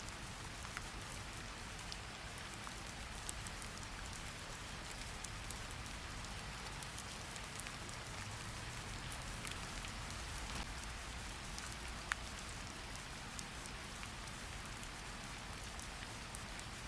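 Steady rain falling: an even hiss scattered with sharp drop ticks, one louder tick about twelve seconds in.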